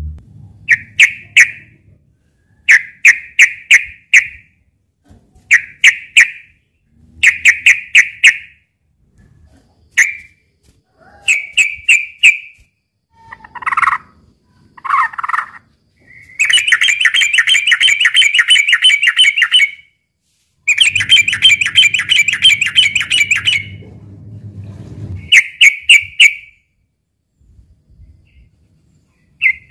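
Yellow-vented bulbul (trucukan) calling: short bubbly, clicky phrases repeated every second or two, broken in the middle by two long, fast chattering runs of several seconds each. These are agitated fighting calls, used to provoke a rival bird to answer.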